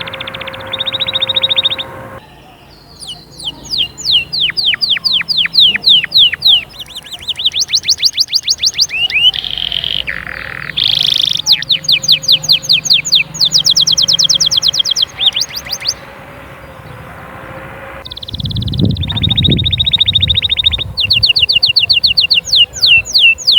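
Domestic canary singing: fast runs of the same sweeping note repeated many times a second, each run switching to a new note type, some high and thin, some lower and rolling. A low rumble comes in about three-quarters of the way through.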